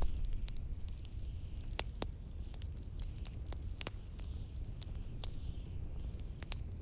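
Wood fire in a fireplace crackling, with scattered sharp pops. Under it runs a low, steady rumble of blizzard wind.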